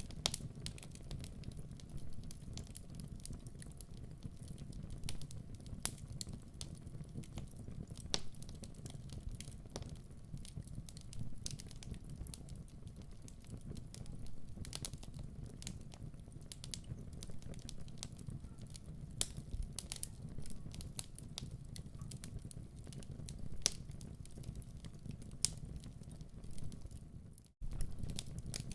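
Wood fire burning in a fireplace: a steady low rumble of flames with irregular sharp crackles and pops from the burning logs. It cuts out for an instant near the end, then resumes.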